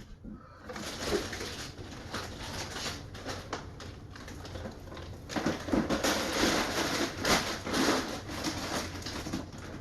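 A bag rustling and crinkling as it is handled, with many small clicks and crackles, busier and louder from about five seconds in.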